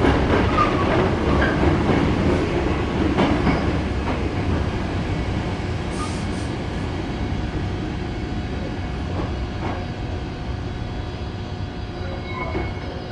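San'yo 3200 series electric train running on the rails, a steady rumble of wheels and motors with a few brief wheel squeals in the first few seconds, growing gradually quieter.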